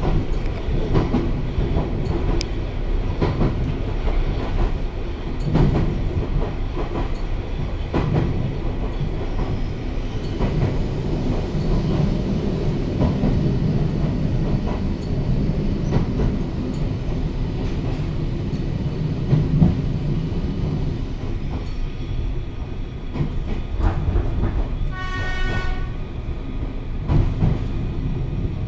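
Running noise inside an electric train car on the move: a steady low rumble of the wheels and motors, with the wheels clacking over rail joints now and then. A brief, higher ringing tone comes near the end.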